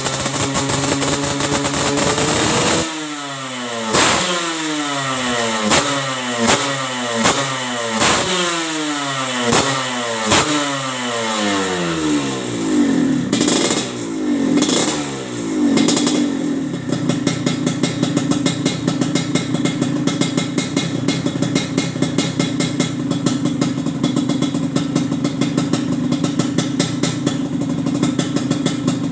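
Semi-ported motorcycle engine on a racing exhaust being blipped repeatedly: a dozen or so quick throttle stabs, each revving up and falling back. It then settles into a steady, fast-pulsing idle about 17 seconds in.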